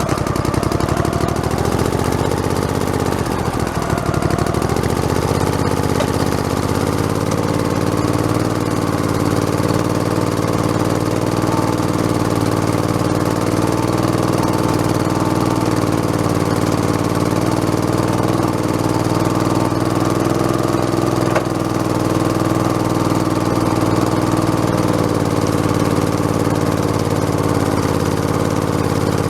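Modified lawn tractor's engine running steadily as it drives along. Its pitch dips briefly a few seconds in and comes back up.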